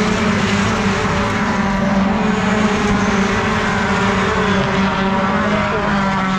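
Racing pickup truck's engine running at high, nearly steady revs, heard loud from on board.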